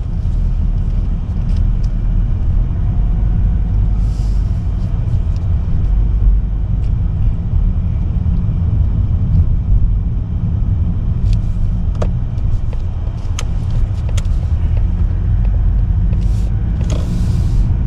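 Steady low road rumble of a car in motion, heard from inside, with a few sharp clicks in the second half and a brief hiss near the end.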